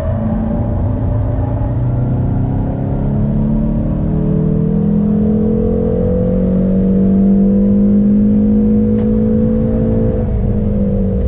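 Hyundai Veloster N's turbocharged 2.0-litre four-cylinder pulling hard, its note climbing steadily for several seconds. Near the end the pitch falls away.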